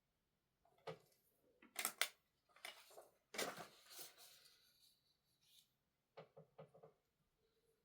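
Small knocks and clicks of objects being handled on a desk. A knock comes about a second in and two sharp, louder strokes follow close together, then a short rattling clatter. Near the end there is a quick run of four light taps.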